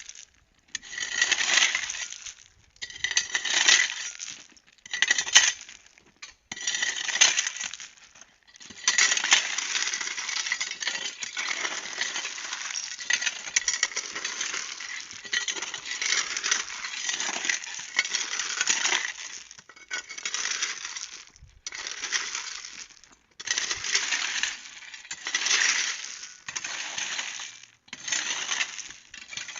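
Loose gravel or stony soil being scraped and scooped with hand tools: repeated crunching, clinking strokes of a second or two each, with a longer unbroken stretch of scraping in the middle.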